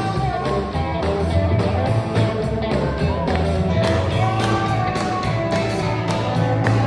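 Live sacred steel gospel band playing an instrumental stretch: steel guitar with sliding, bending notes over bass and a steady drum beat.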